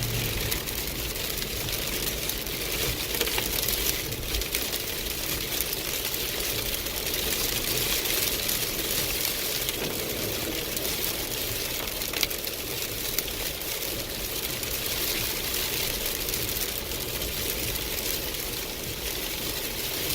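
Car driving in a heavy downpour: a steady hiss of rain and tyres on the wet road, over a low engine hum.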